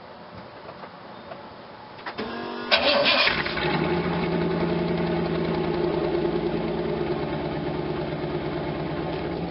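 1992 Camaro Z28's stock L98 350 V8 cranked over by the starter about two seconds in, catching loudly a moment later and settling into a steady idle through the stock exhaust. The exhaust leaks at the muffler joint that has been loosened, which the owner says gives it a little tap.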